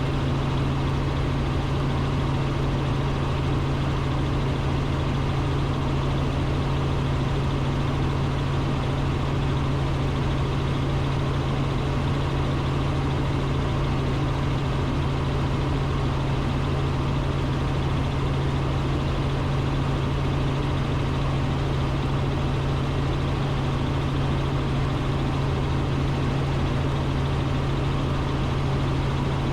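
Robinson R44 Raven II helicopter in steady cruise, heard from inside the cockpit: the engine and rotors running with a constant low hum and drone that does not change.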